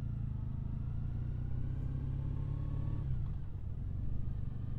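Triumph Bonneville parallel-twin motorcycle engine running at low road speed, a steady low engine note that shifts about three seconds in.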